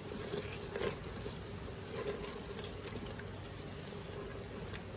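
Tomato sauce simmering in an Instant Pot on its sauté setting, a steady bubbling and sizzling, with a few faint clicks.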